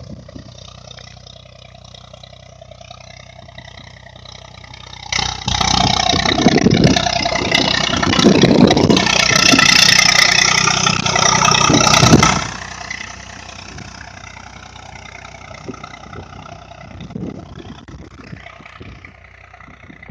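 Tractor engine running steadily, growing much louder and rougher from about five seconds in, as when revved, then falling back to a steady run about twelve seconds in.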